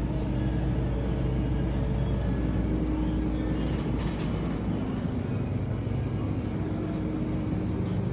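Steady low mechanical hum with a few faint clicks about four seconds in.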